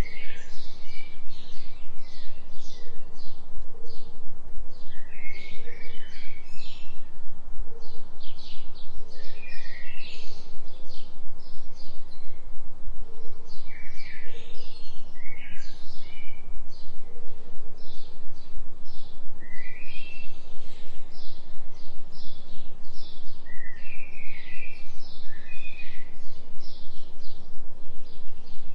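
Recorded forest birdsong, with many short chirps and trills from several birds and occasional soft low calls, over a steady deep tone. The deep tone is a binaural delta-wave tone that pulses about three times a second.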